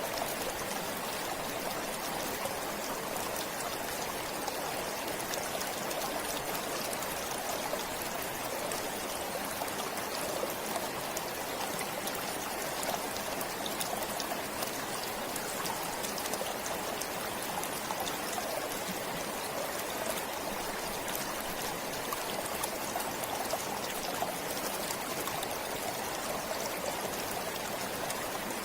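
A forest stream flowing steadily, a constant, even rush and trickle of water.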